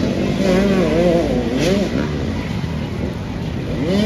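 Motocross bike engines revving, their pitch rising and falling over a steady rumble, with a sharp rising rev near the end.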